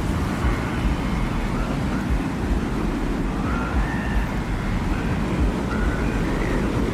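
Steady, rumbling desert wind ambience: a constant low rush with faint, short whistling tones drifting in and out above it.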